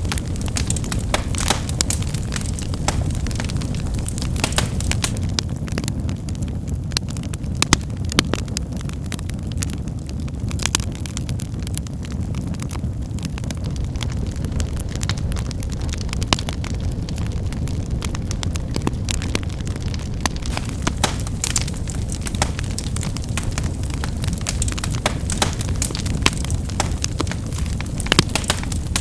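Wood fire burning with a steady low rumble of flame and frequent sharp crackles and pops of firewood snapping, scattered irregularly throughout.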